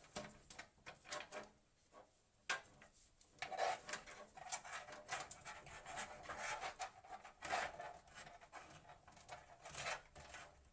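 Objects being handled: an irregular run of rubs and scrapes broken by sharp clicks and light knocks.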